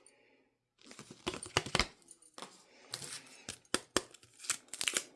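Photo cards and a card holder being handled: a scatter of light clicks, taps and paper rustles, starting after a brief silence.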